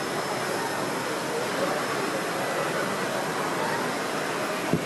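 Busy hall ambience: steady background chatter of many people, with one short knock near the end.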